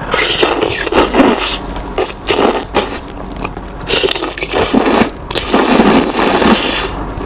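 Close-miked eating sounds: irregular bursts of biting, chewing and scraping as Samyang spicy noodles and cheese sausage are eaten.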